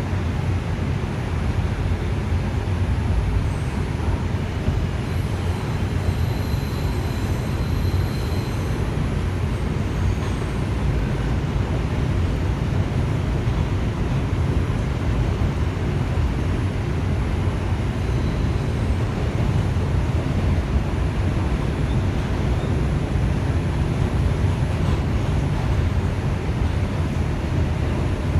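R142 subway car running at speed, heard from inside the car: a steady low rumble of wheels on rail, with a faint high whine from about five to nine seconds in.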